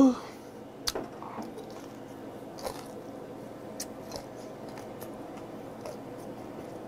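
Close-miked chewing of grilled meat: soft, irregular wet mouth clicks and smacks, with a sharper click about a second in.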